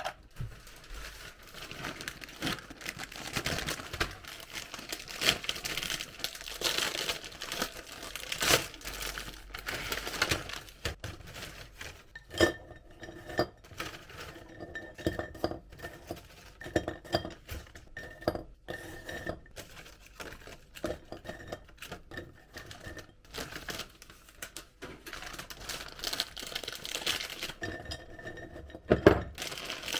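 Groceries being handled and unpacked: plastic packaging crinkling and rustling, with the light clinks and knocks of glass and plastic containers being set down and handled.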